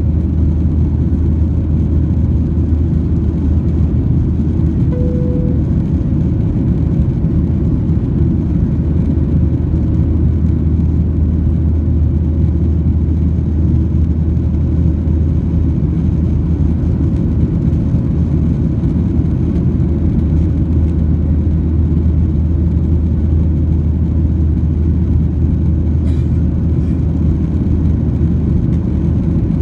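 Steady cabin rumble of a Boeing 737-800 airliner, the deep drone of its CFM56-7B engines and the rush of air around the fuselage, with no change in level. A brief short tone sounds once about five seconds in.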